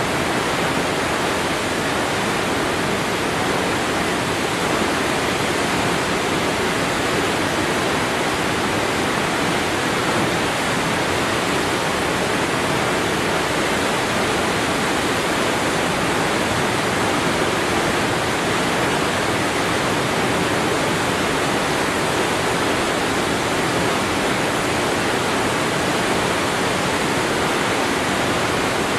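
Waterfall: falling water crashing in a steady, unbroken rush.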